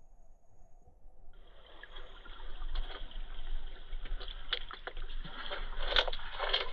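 River water sloshing and splashing right against the microphone. It is muffled at first, then turns brighter about a second and a half in, with a run of sharp splashes, the loudest near the end.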